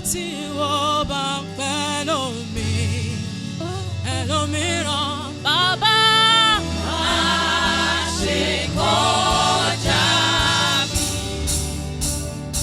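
Gospel song with a lead voice singing long, wavering held notes over a bass and keyboard backing, joined by backing voices.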